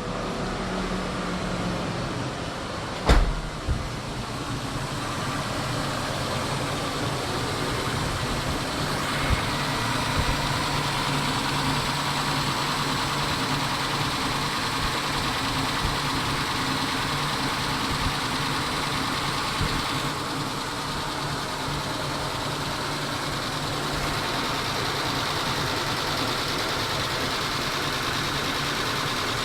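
Mitsubishi 6G72 3.0 V6 engine idling steadily, with one sharp knock about three seconds in.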